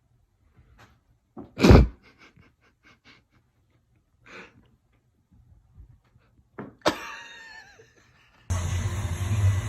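A string of light knocks and taps, a loud thump about two seconds in, and a sharp crash with ringing about seven seconds in; a steady noise starts near the end.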